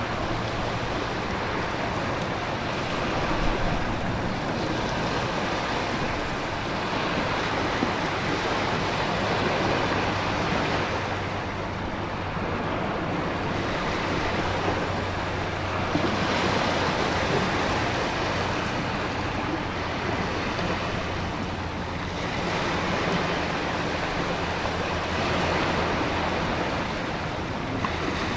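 Storm ambience of heavy rain and ocean surf: a dense hiss that swells and eases every several seconds as waves surge, over a steady low rumble.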